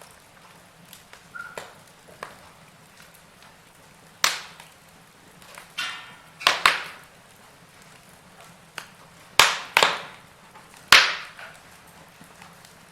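Burning logs in a fireplace crackling: a faint steady hiss with small ticks, broken by about six loud, sharp pops in the second half.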